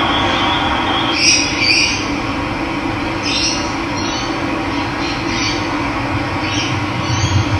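Steady rush of running water, with a bird repeating short, high calls about once a second from about a second in.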